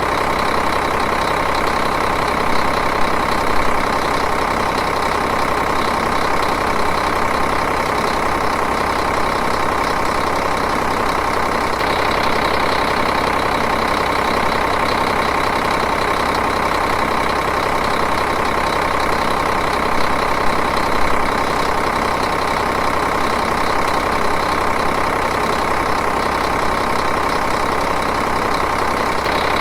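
Diesel engine idling steadily, an even, unbroken running sound.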